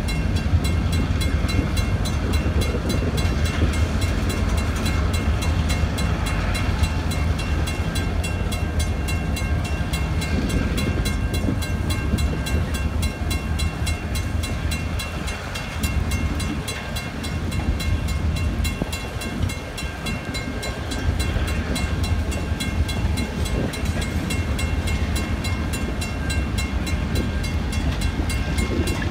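Freight train of tank cars rolling steadily through a level crossing, its wheels running on the rails, while the crossing's warning bell rings with steady high tones. The train noise eases a little about halfway through, then picks up again.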